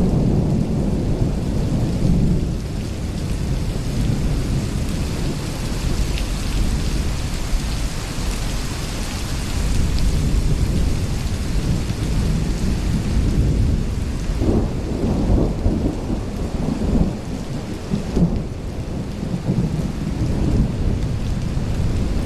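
Thunderstorm: steady rain falling with low rolling thunder, the rumble swelling in stronger spells around two-thirds of the way through.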